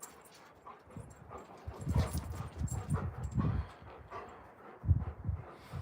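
Alaskan Malamutes making low dog vocal sounds in two short spells, one starting about two seconds in and a shorter one near the end.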